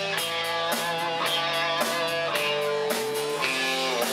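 Live country-rock band playing a guitar-led instrumental passage with a steady beat, no singing.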